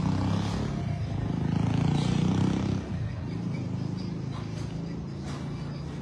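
A vehicle engine running close by with a low, pulsing hum. It grows louder for a second or so, then drops away about three seconds in, as if the vehicle passes and moves off.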